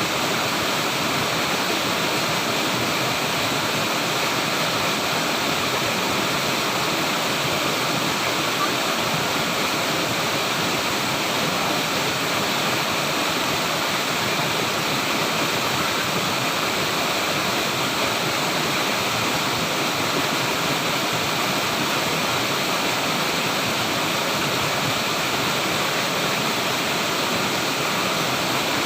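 Flowing water rushing steadily, an even, unbroken sound with no changes.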